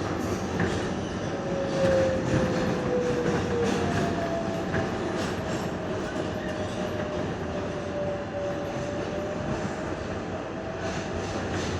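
Running noise inside an R142A subway car moving between stations: a steady rumble of wheels on rail with scattered clicks. A thin squeal slides down in pitch a couple of seconds in, and a second, slightly higher one is held through the middle.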